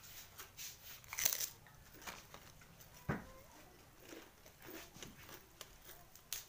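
Close-up chewing of crispy kerupuk crackers with rice, in irregular crisp crunches, with one louder knock about three seconds in.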